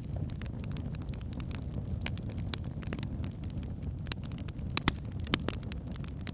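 Wood fire burning in a fireplace: a steady low rumble of flames with irregular crackles and pops from the burning logs, a few sharper pops near the end.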